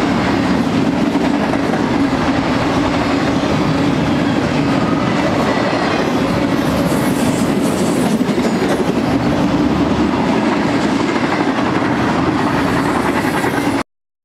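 Double-stack intermodal freight train's well cars rolling past: a steady rumble of steel wheels on rail. It cuts off suddenly near the end.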